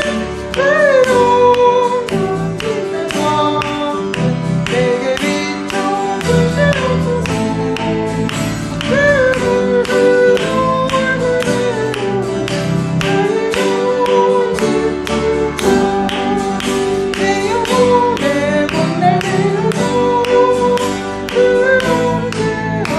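Worship music: plucked guitar chords and a steady beat under a gliding melody line, with singing.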